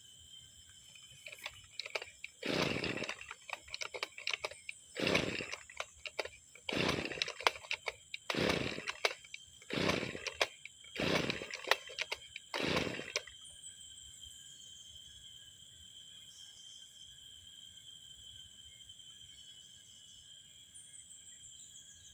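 Brush cutter engine being pull-started after six months unused: six short cranking bursts on the recoil starter, about one every one and a half to two seconds, without the engine catching. After the pulls stop, only steady insect chirping remains.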